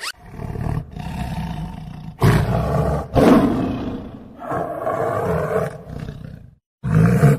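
A tiger roaring in a run of long, deep calls with short breaks between them.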